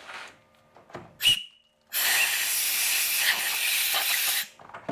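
A short puff, then a steady hiss of escaping pressurised air lasting about two and a half seconds and stopping abruptly.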